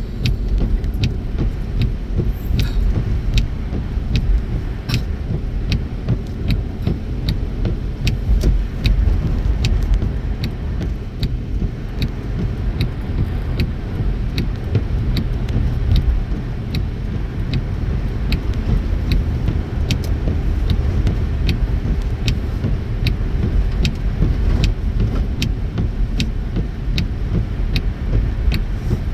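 Inside a moving car: steady low road and engine rumble, with the turn signal ticking evenly at about one and a half ticks a second as the car takes a highway exit.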